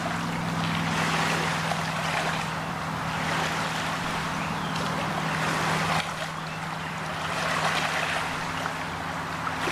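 Riverside ambience: a steady rushing noise of wind and water with a low, steady motor hum underneath that shifts slightly about six seconds in.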